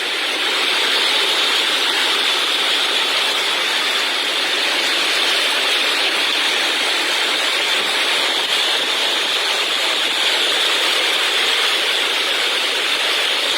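Steady, loud rushing of water in a rain-flooded street, an even noise with no breaks.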